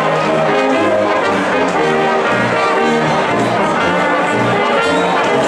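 Brass band playing a tune, with a line of low notes moving underneath.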